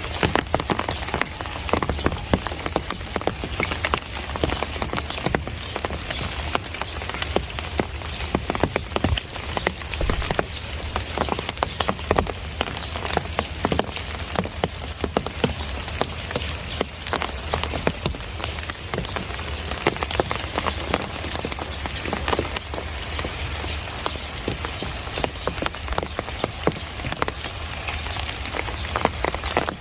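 Steady heavy monsoon rain falling on surfaces, a dense continuous hiss thick with individual drips and splashes.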